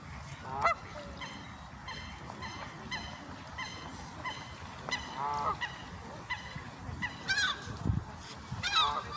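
Geese honking: a run of short repeated calls, with a few louder, longer honks in the second half.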